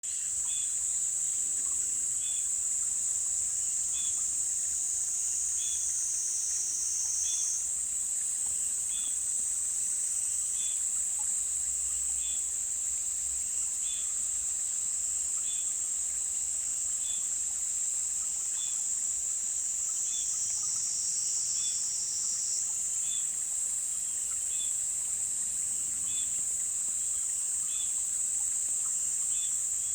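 Insects trilling in a continuous high-pitched chorus, with a short chirp repeating about every second and a half.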